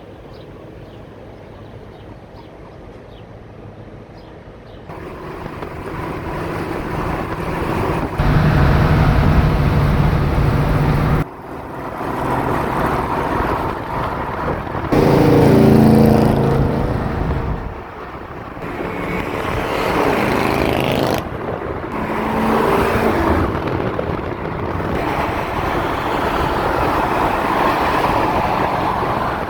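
Car engine running and accelerating over several short clips, with the pitch rising as it revs about halfway through and again a little later, then running steadily under load.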